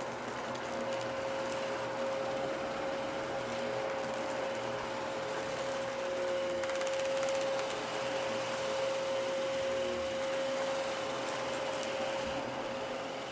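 Dyson DC33 upright vacuum cleaner running steadily, its motor giving a constant whine over a broad rush of airflow, with faint crackling about halfway through.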